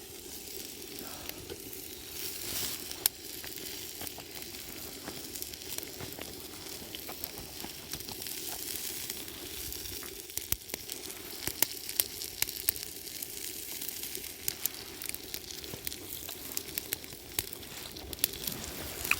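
Food sizzling in a pan over a wood campfire, with sharp crackles and pops that come more often in the second half.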